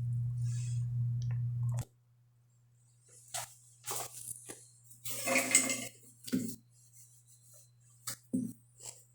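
A steady low hum cuts off abruptly a couple of seconds in. It is followed by scattered knocks and clinks of hard parts being handled, with a short clatter near the middle.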